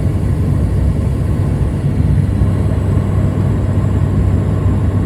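Steady deep drone inside an airliner's cabin in flight: jet engine and airflow noise.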